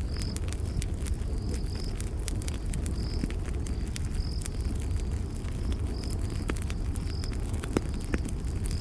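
Campfire crackling and popping over a steady low rumble of burning wood, with crickets giving short high chirps about once a second.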